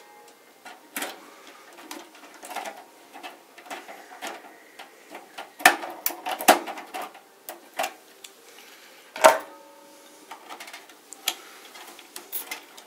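Irregular clicks, taps and knocks of hands working on computer parts inside a PC case, with a few louder knocks about six and nine seconds in.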